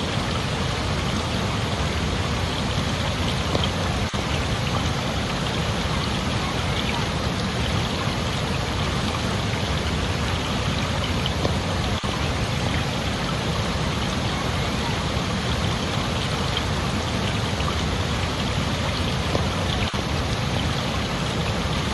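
Steady rushing water, an even hiss that doesn't change, with a brief tiny dip about every eight seconds.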